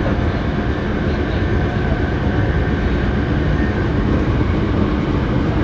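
Hankyu 7300 series electric train running at speed, heard from inside a car that is known for an unusual running noise: a steady rumble of wheels on rail, with a faint steady whine over it.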